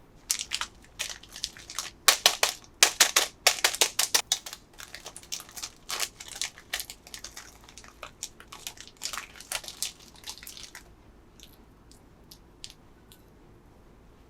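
Plastic packaging crinkling and crackling as it is handled, in a dense run of sharp crackles for about ten seconds, loudest near the start. A few light clicks follow near the end.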